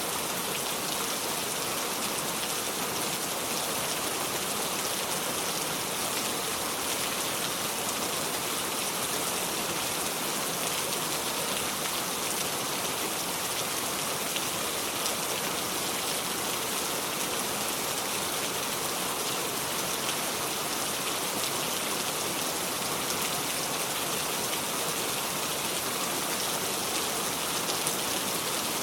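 Steady heavy rain falling on a surface, an even unbroken hiss with fine patter of individual drops and no thunder.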